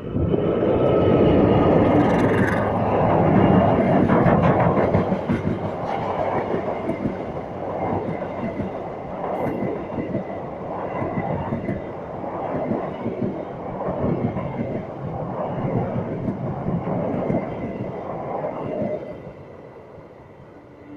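Train passing at close range, loudest in the first few seconds, then its carriages clattering over the rails in a regular rhythm of about one beat a second. The sound fades away near the end.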